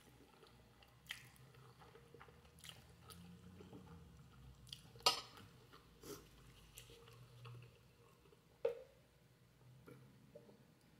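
A person chewing instant noodles, with faint mouth sounds and scattered short, sharp clicks and smacks, the loudest about five seconds in and another just before the end.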